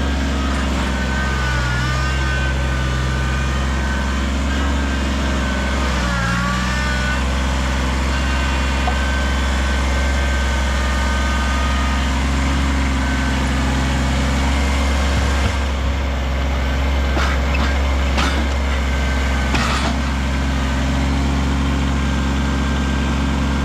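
Kubota BX compact tractor's three-cylinder diesel running steadily while its loader mixes a compost pile, with a higher whine that dips in pitch as the engine takes load about six seconds in. A few knocks are heard in the second half.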